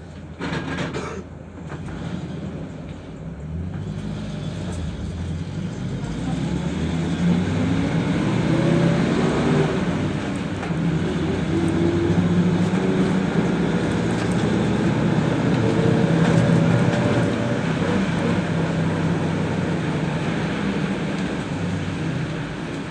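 PAZ 32054 bus engine heard from inside the cabin as the bus pulls away. Its note rises over several seconds as it accelerates, then settles into a steady drone at cruising speed. There is a brief clatter just before, about half a second in.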